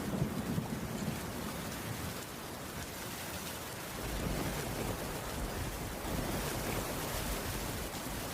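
Heavy rain falling steadily as a dense, even hiss, with a low rumble underneath that grows stronger about halfway through.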